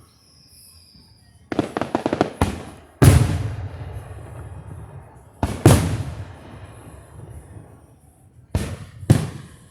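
Fireworks going off: a burst of crackling about a second and a half in, then loud booms about three and five and a half seconds in, each echoing away, and two more sharp bangs near the end.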